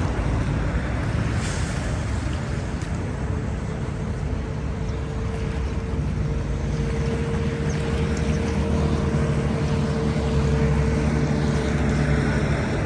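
A motor running steadily with a low drone, and a thin steady whine over it through the middle of the stretch.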